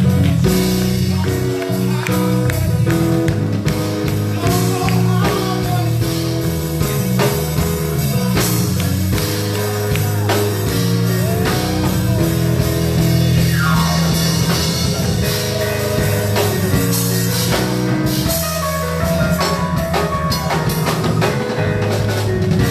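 Live band music with drum kit, bass and guitar, playing a steady groove with some singing over it.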